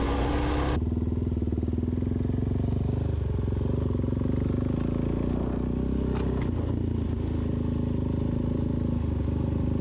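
Suzuki DR-Z400S single-cylinder four-stroke engine running at a steady, even speed while the motorcycle is ridden.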